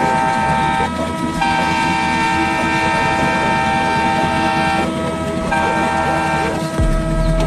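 Locomotive horn sounding in long blasts: one ends about a second in, a long one lasts about three seconds, and a shorter one follows. Near the end a single lower tone carries on over a deep rumble.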